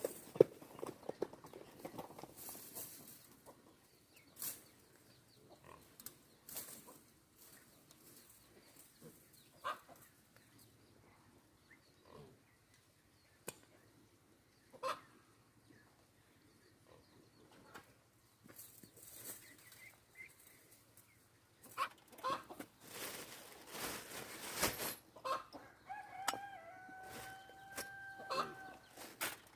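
Chickens clucking amid scattered knocks and rustling, with a rooster crowing near the end in a few held calls.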